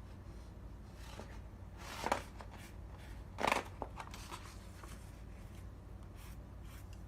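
Sheets of paper being handled for a handmade notepad, rustling and sliding, with two short louder swishes about two and three and a half seconds in. A low steady hum runs underneath.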